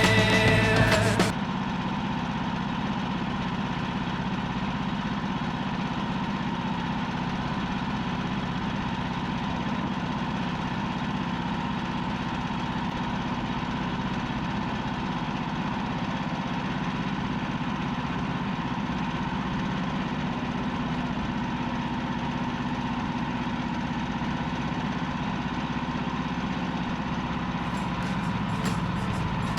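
Woodland Mills HM130MAX portable bandsaw mill's gasoline engine running steadily at constant speed.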